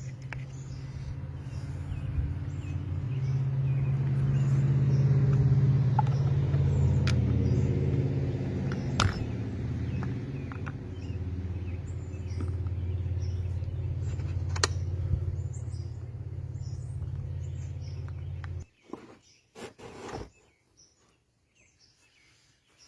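A low, steady mechanical hum, loudest over the first few seconds, then cutting off abruptly near the end. A few sharp clicks sound through it.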